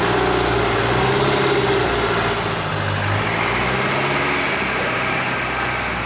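Rebuilt GM Duramax 2.8 four-cylinder turbo-diesel idling steadily, freshly assembled, with a high hiss over the top that eases about halfway through.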